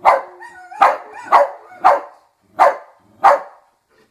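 A dog barking in a steady series of six short, sharp barks, about one every half second or so, the last two a little more widely spaced.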